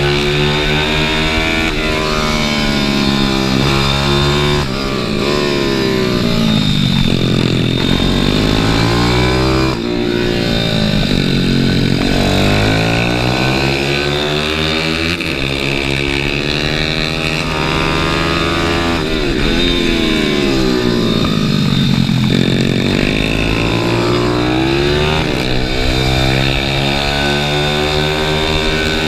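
Pit bike's small single-cylinder engine heard from on board at speed, its note climbing and falling again and again as the rider opens and closes the throttle through the corners, with wind rushing past.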